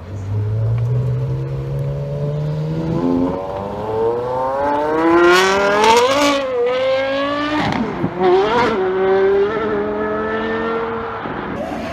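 Porsche Carrera GT's 5.7-litre V10 accelerating: a low steady engine note for about three seconds, then the revs climb hard to a peak about halfway through, drop and pick up again twice as it shifts gear, and hold a high steady note that eases off near the end.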